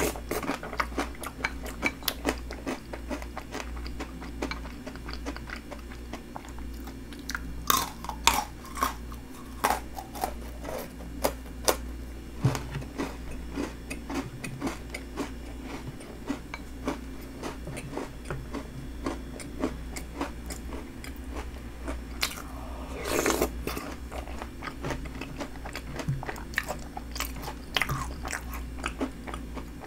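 Close-up chewing and crunching of a milky snack bingsu: crisp cookies and snack pieces bitten and chewed with shaved ice, many sharp crunches one after another, with a longer, louder crunching sound a little past two-thirds of the way through.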